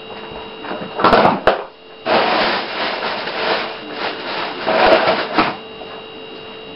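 Hands handling kitchen things: a few sharp clicks and knocks about a second in, then several seconds of uneven rustling and scraping, under a faint steady hum.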